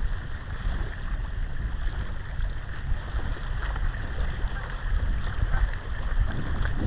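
Wind blowing across the microphone: a rough, fluttering low rumble that holds steady throughout.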